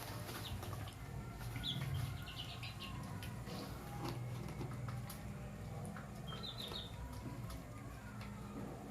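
Chickens peeping in short high chirps that come in a few small clusters, over a steady low hum.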